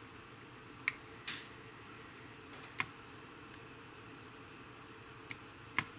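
Masking tape being peeled off a painted plastic model wing with tweezers: about five sharp light clicks and one short rustle of tape, the loudest click near the end, over a faint steady background noise.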